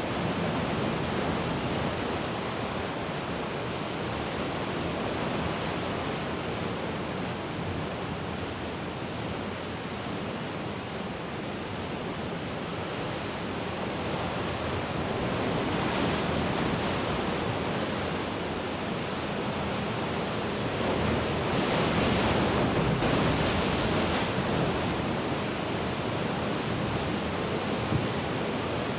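Mediterranean sea waves washing in a steady rush, swelling louder with a brighter hiss about halfway through and again for a few seconds past the middle.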